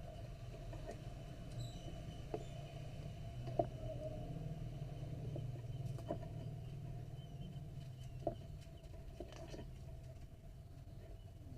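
Light, scattered clicks and taps of a net-weaving needle and thread being worked by hand while weaving a cord, over a steady low hum.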